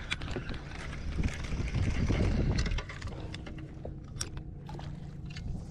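Water splashing and spattering from a school of mullet at the surface: many small, sharp splashes. The splashing gets quieter about three seconds in, and a faint steady low hum remains.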